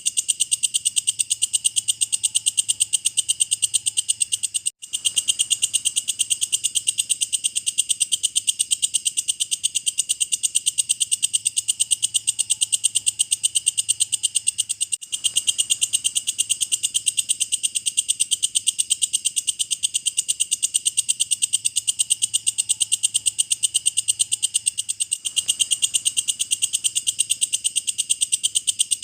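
Walang kecek, a bush cricket, calling in a steady, even train of high, shrill pulses, about five a second, broken by tiny gaps roughly every ten seconds.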